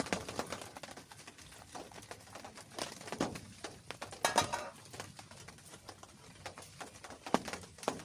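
Irregular taps and knocks, like drops or small objects striking a hard surface, with a louder clatter about four seconds in and a sharp knock just past seven seconds.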